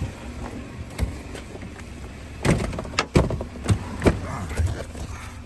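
Car door being opened and handled: several sharp clicks and thumps, the loudest in the middle, over a low steady rumble.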